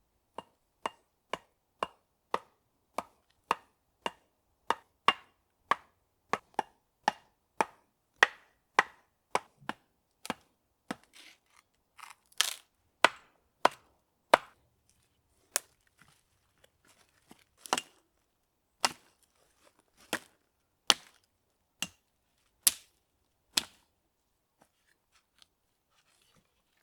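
Wood being chopped: a long series of sharp single strikes, about two a second at first, then slower and more spaced out, stopping a few seconds before the end.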